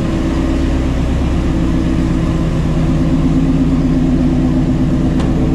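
Shelby GT350's 5.2-litre flat-plane-crank V8 with long-tube headers, running steadily while driving, heard from inside the cabin.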